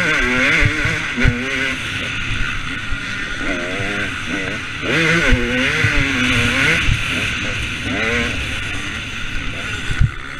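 Two-stroke KTM 250 SX motocross bike engine revving hard, its pitch rising and falling repeatedly as the rider works the throttle and gears, with a steady hiss and occasional short thumps.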